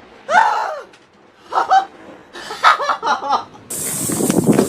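A person laughing in short bursts after a close lightning scare. About three and a half seconds in, a steady hiss starts.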